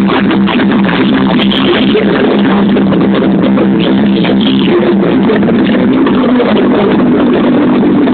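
Loud, continuous music played over a sonidero sound system, with a strong, dense low end and a dull top.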